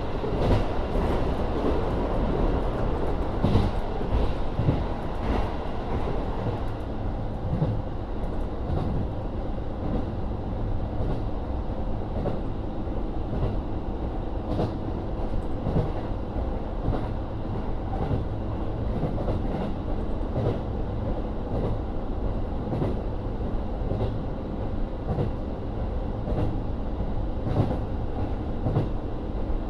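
Running sound inside a KiHa 40 diesel railcar under way: a steady low rumble from its N-DMF13HZB diesel engine and from the wheels on the rails, with frequent irregular clicks as the wheels pass over the track.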